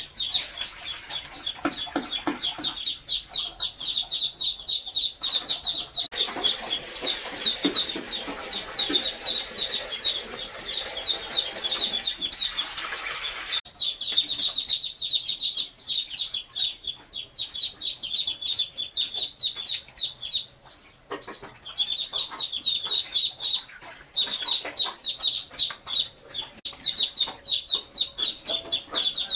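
Chickens clucking and calling in a steady run of short, high, repeated notes, with a hiss covering them from about six to thirteen seconds in.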